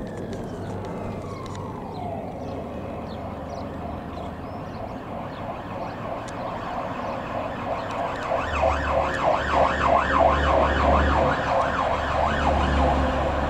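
Emergency vehicle siren: a slow rising-and-falling wail that fades in the first couple of seconds, then from about eight seconds in a fast yelp, three or four rises and falls a second. The yelp comes over a low engine rumble and is the loudest part.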